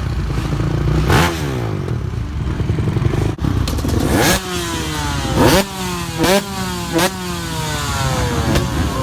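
Motocross bike engines running and revving. In the second half come several sharp throttle blips, each rising fast and then falling away in pitch.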